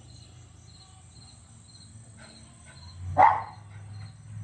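A dog gives a single short bark about three seconds in, over a steady background of insects chirping in a regular pulse.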